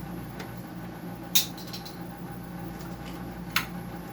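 Sharp clicks and clacks of hard plastic parts and tools being handled during a dehumidifier teardown, two louder ones about a second in and near the end, over a steady low hum.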